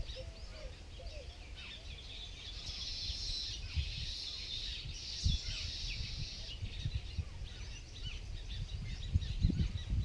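Several birds chirping and calling at once, with many short high chirps and a denser burst of chirping for a few seconds in the middle, over a low outdoor rumble that grows near the end.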